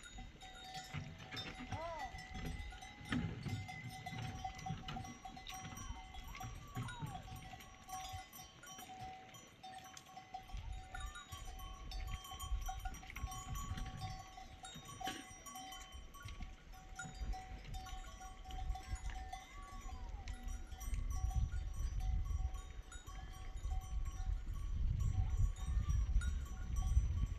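Livestock bells ringing on a grazing flock, with a few short calls rising and falling in pitch. A low rumble grows louder in the second half.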